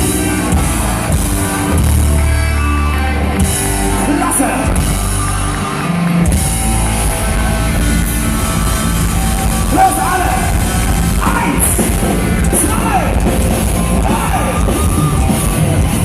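Folk-metal band playing live with drums, heavy bass and guitars, and a singer's loud sung and shouted vocals; the low end drops out briefly about six seconds in.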